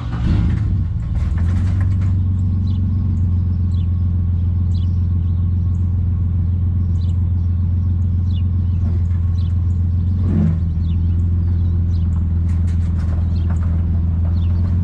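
Motor vehicle driving: its engine and road noise make a steady low drone.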